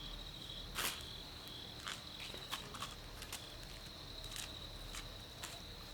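Steady high-pitched insect chirring, with scattered sharp clicks or knocks, the loudest about a second in.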